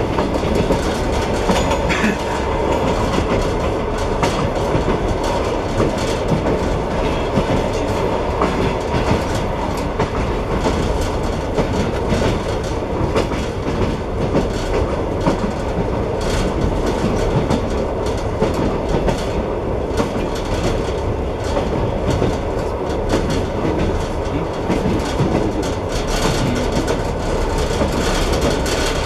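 Passenger train running at speed, heard from inside the carriage: a steady rumble of wheels on the rails with frequent irregular clicks from the wheels going over the track.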